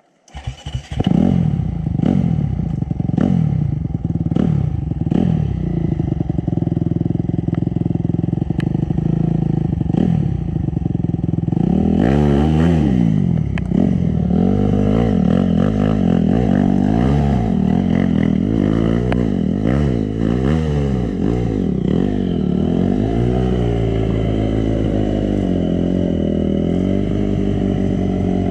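Honda CRF250 dirt bike's single-cylinder four-stroke engine being worked hard over rough trail. First come short throttle blips about once a second, mixed with sharp knocks and clatter. From about twelve seconds in it turns to continuous revving that rises and falls again and again.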